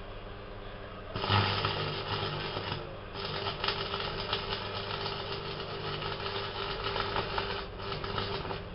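MMA stick-welding arc with 2.5 mm rods crackling and spitting, striking up about a second in and breaking off briefly twice, about three seconds in and near the end, over a low electrical hum. The arc spits and cuts out every couple of seconds, which the owner puts down to the power supply to the welder.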